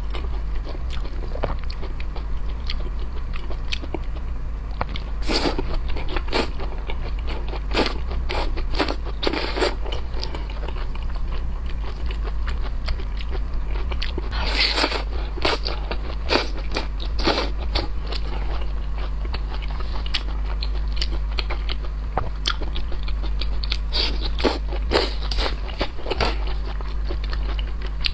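Close-miked eating of seafood: irregular crisp crunches and bites with chewing in between, over a steady low hum.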